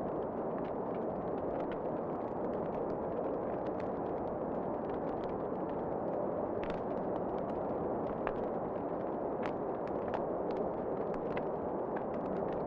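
Wood fire crackling in a fireplace, with irregular sharp pops and snaps over a steady low rush of flame and wind.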